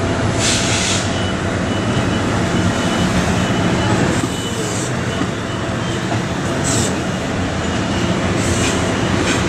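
MARC commuter train running loudly along the tracks: a steady low rumble with short hisses about half a second in, near seven seconds and near the end.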